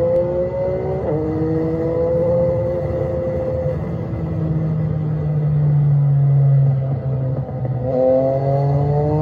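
Yamaha motorcycle engine accelerating hard. Its pitch climbs, drops suddenly about a second in as it shifts up a gear, then climbs again. The rising note fades for a few seconds as the throttle eases, then the engine climbs again near the end.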